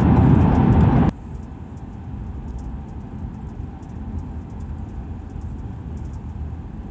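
Heavy rain and wet-road noise from a vehicle driving in rain. It cuts off abruptly about a second in, leaving a quieter, steady low road rumble.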